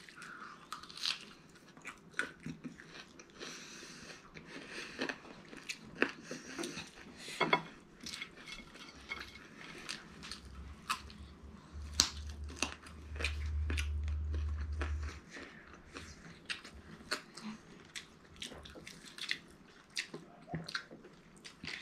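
Close-up chewing and biting of food, with many short crunchy clicks scattered through. A steady low hum sounds for several seconds in the middle.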